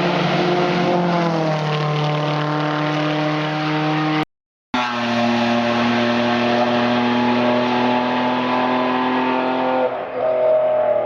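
Racing car engine running hard. Its pitch falls over the first couple of seconds, then holds steady at high revs. The sound drops out completely for about half a second a little after four seconds in, then carries on steady until a change near the end.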